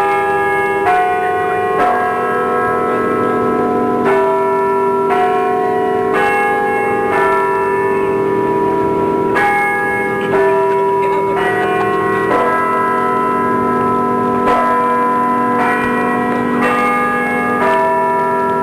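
Bells ringing a sequence of sustained, overlapping notes, with a new strike about every second, like a peal of church bells.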